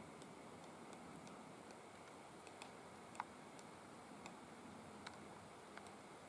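Faint, irregular taps of a three-toed woodpecker pecking, about ten in a few seconds, with one louder tap about halfway through.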